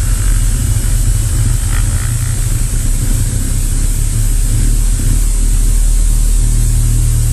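Cessna 172's piston engine and propeller running steadily at high power, with rushing air noise, as the plane takes off.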